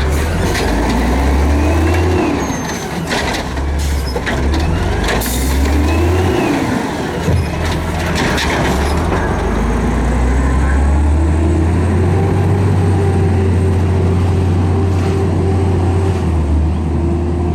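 City garbage truck's diesel engine revving up and dropping back twice, then holding a raised rev for several seconds, with a few sharp bangs in the first part.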